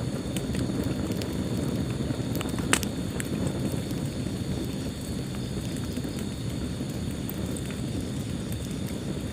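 Wood fire burning in a fireplace: a steady low rumble with scattered crackles and pops, one sharper pop about a third of the way in.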